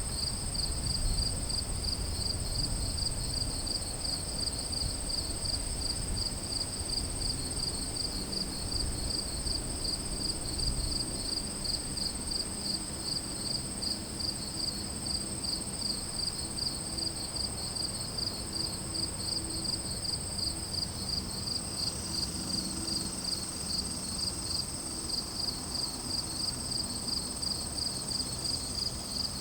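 Crickets chirping in an even, rapid rhythm, over a continuous high-pitched insect trill, with a low rumble underneath that fades after the first few seconds.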